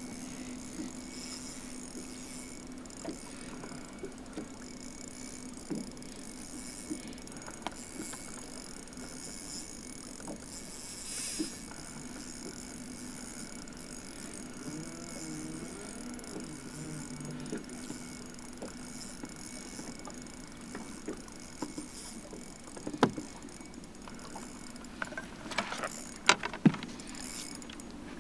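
Steady low motor hum on a bass boat, with a few sharp clicks and knocks near the end.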